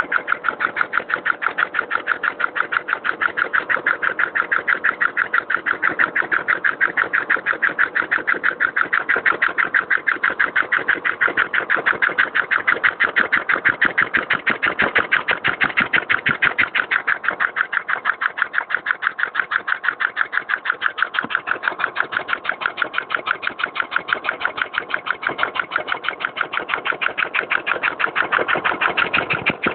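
Two-stroke motorcycle engine converted to run on compressed air, running steadily: a rapid, even train of air-exhaust pulses and mechanical clatter that holds one pace throughout.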